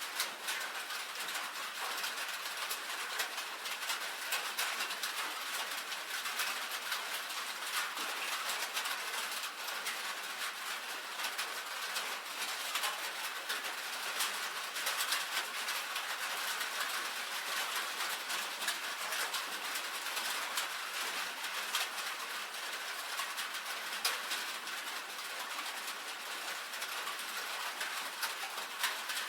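Steady rain pattering on a tin roof: a dense stream of small, sharp drop ticks over an even hiss.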